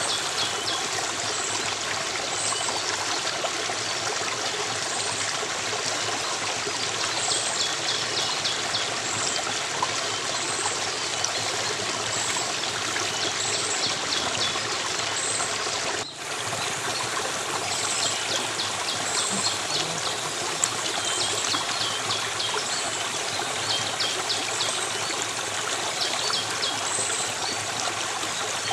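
Stream of water flowing steadily, with small birds chirping in short repeated high phrases over it. The water sound dips briefly about sixteen seconds in.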